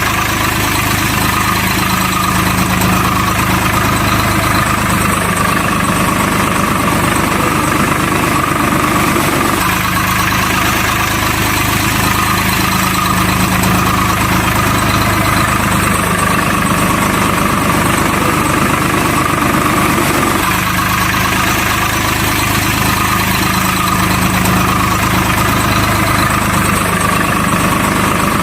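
Heavy truck engine idling steadily, a low hum that repeats as a loop about every eleven seconds.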